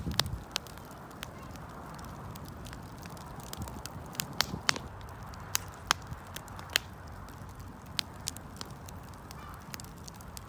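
Wood bonfire crackling: irregular sharp pops and snaps over a steady low rumble of the burning fire, with a louder low rush right at the start.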